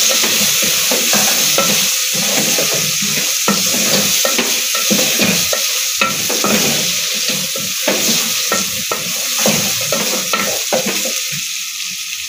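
Meat frying and sizzling in a metal pot while a wooden spoon stirs and scrapes it in repeated strokes; the stirring stops near the end, leaving the steady sizzle.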